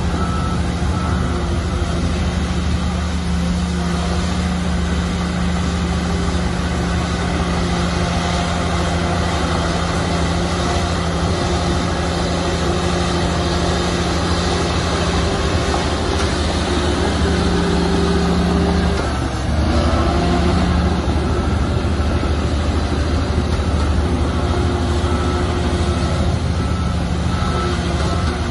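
Heavy diesel engine of earthmoving machinery running steadily under load, its note dipping briefly and picking back up about two-thirds of the way through.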